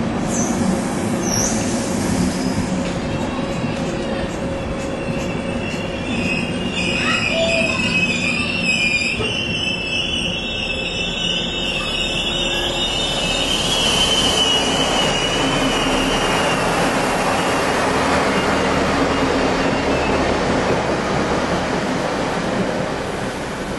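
Passenger trains at a station: a high, wavering steel wheel squeal lasting several seconds, then the louder, even rumble of railway coaches rolling past close by.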